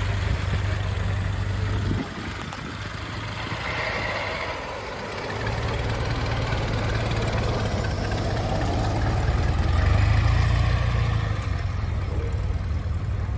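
Old car engine running with a low, steady rumble. It thins out about two seconds in, comes back a few seconds later and is loudest near the end.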